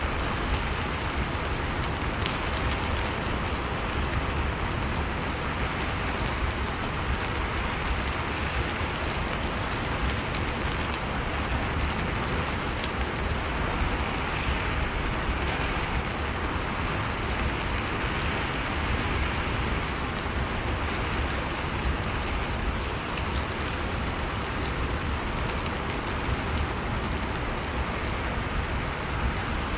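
Steady rain falling and pattering on surfaces, a continuous even hiss with a low rumble underneath and fine scattered drop ticks.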